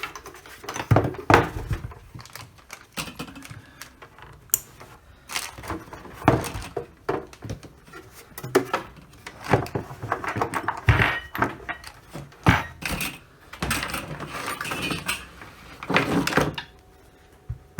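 Irregular clicks, knocks and light rattles of hands handling the opened IP camera, its cables and connectors, and tools on the workbench.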